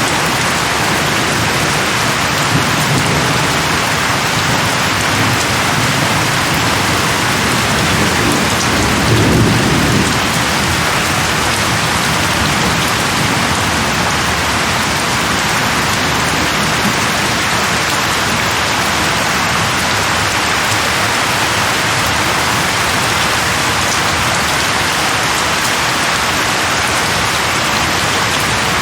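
Steady heavy rain falling on a surface, with low rolls of thunder rumbling under it, the loudest about nine seconds in.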